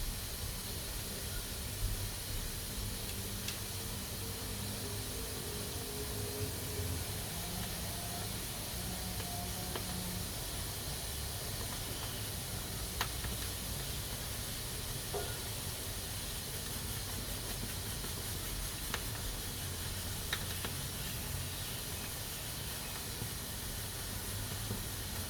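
Pressure cooker hissing steadily as steam escapes from its valve, with a few faint clicks scattered through the hiss.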